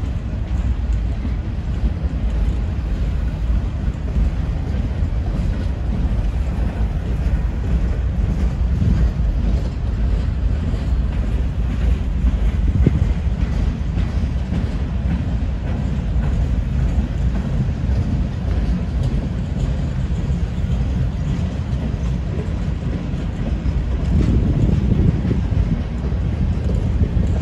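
Norfolk Southern freight train rolling past, a steady low rumble of wheels on rail that swells slightly near the end.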